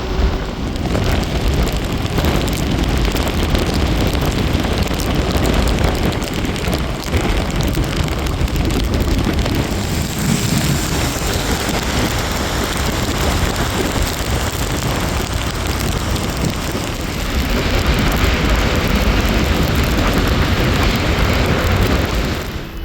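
Rushing wind and road noise from riding a Royal Enfield motorcycle, with the engine running underneath. The noise grows louder for the last few seconds, then drops away at the very end.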